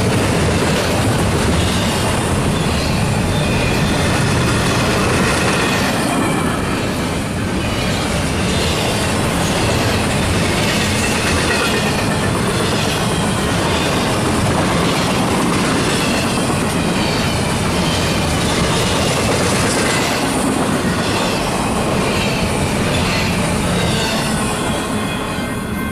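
Double-stack intermodal well cars rolling past at speed: a steady loud rush of wheel and rail noise with a wavering high wheel squeal. The sound falls away near the end as the last car passes.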